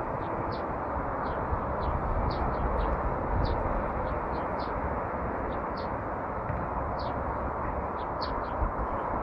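Small birds chirping in short, high, repeated calls, about two a second, over a steady rushing background noise.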